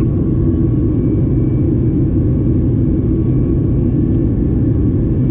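Steady low cabin rumble of a Boeing 737 MAX 8 under way, from its CFM LEAP-1B turbofan engines and the airflow, with a faint steady whine above it.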